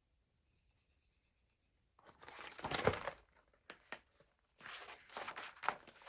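Paper rustling and crackling as the pages of a picture book are handled and turned, in two spells: one starting about two seconds in, the louder, and another near the end.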